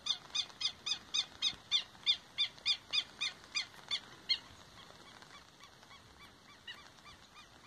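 A bird calling: a rapid series of repeated short notes, about four a second, slowing slightly and fading out about four seconds in, with a few faint notes near the end.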